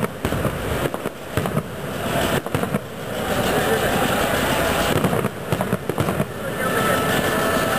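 Fireworks going off: a dense barrage of firecracker bangs and crackling, easing for a moment midway and then picking up again.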